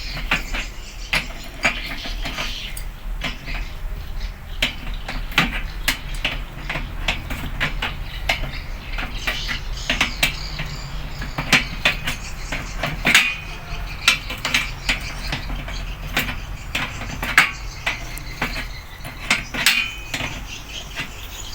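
Irregular clinks and knocks of metal tools on metal parts, a few of them ringing briefly, over a low steady hum.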